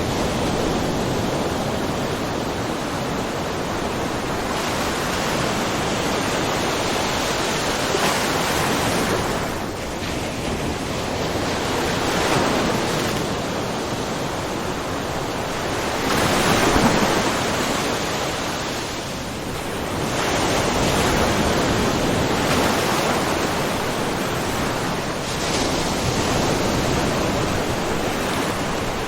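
Small ocean waves lapping and splashing on a rocky shore: a steady wash of surf that swells and ebbs every few seconds, with the biggest splash a little past the middle.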